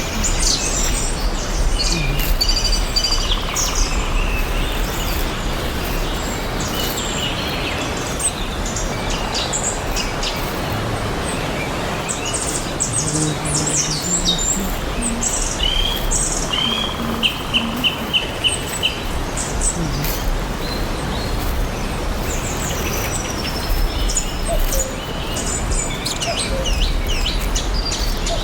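Several songbirds chirping and calling over a steady background hiss, with a quick run of repeated short notes about seventeen seconds in.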